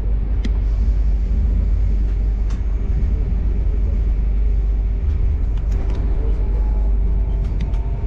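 Moving electric train heard from inside the carriage: a steady low rumble of running along the track, with a constant hum and a few faint clicks.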